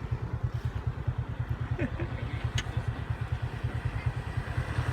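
Small motorcycle engine idling with a steady, even low putter.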